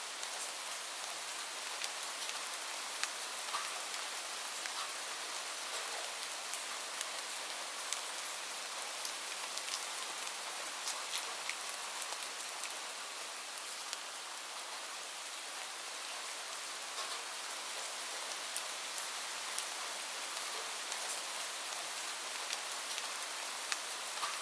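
Steady rain falling, a constant hiss with many small drops ticking sharply on a surface throughout.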